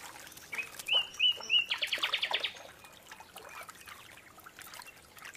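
A small bird calling: a few short slurred notes, then a fast trill of about ten strokes around two seconds in.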